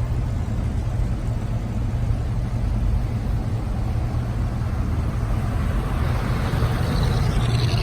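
Car engine running with a steady low hum, the sound swelling and brightening near the end as a vehicle draws closer.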